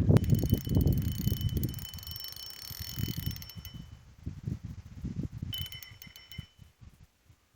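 Fishing reel clicking rapidly in two spells, a long one from the start and a shorter one about two-thirds of the way through, over low knocking from handling the tackle.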